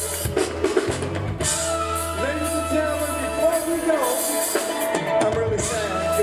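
Live band music with a drum kit and singing.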